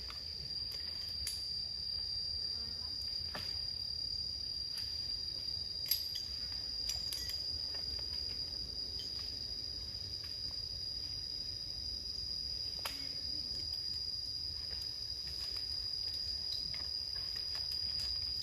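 Insect calling in one steady, unbroken high-pitched tone, with a few faint clicks over it.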